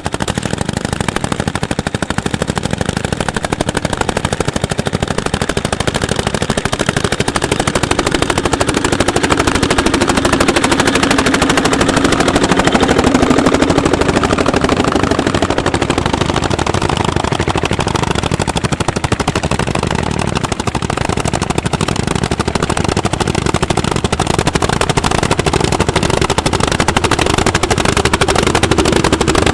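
Single-cylinder two-stroke hot-bulb tractor engine running under load while plowing: a steady run of rapid exhaust beats.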